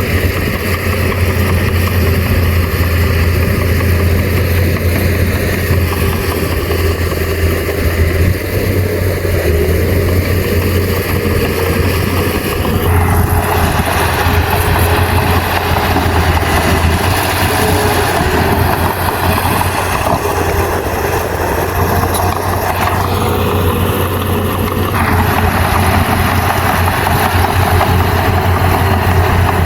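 Heavy diesel engine of earthmoving machinery running steadily with a deep hum. A rougher mid-range noise joins in about halfway through and drops away again a few seconds before the end.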